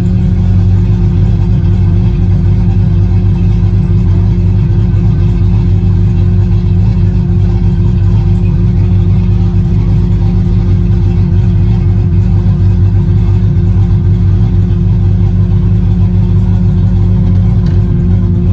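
Truck engine idling steadily at a loud, even pitch with no revving; the owner says it has a small exhaust leak.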